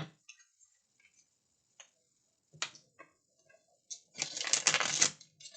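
Playing cards being handled and shuffled: a few separate snaps, then a rapid run of card clicks about four seconds in, as in a riffle or bridge shuffle of a deck.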